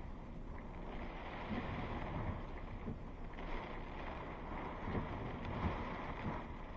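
Thunderstorm wind blowing: a steady rushing noise with low rumbling gusts on the microphone.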